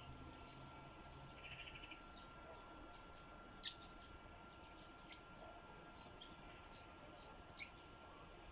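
Small birds, sparrows, chirping faintly: about half a dozen short, sharp calls scattered over several seconds, with a brief buzzy call early on.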